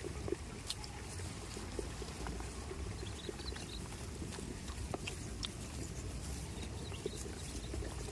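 Goats moving about at close range: scattered short clicks and knocks over a steady low rumble.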